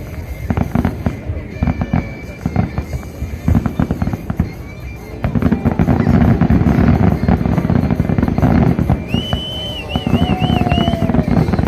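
A fireworks display: shells bursting and crackling in rapid volleys, densest and loudest from about halfway through. A high, wavering whistle is heard near the end.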